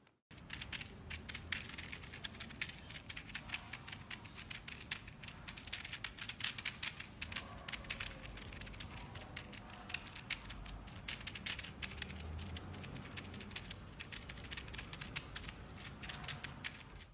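Rapid, irregular small clicks and crackles, closely packed, over a low rumble.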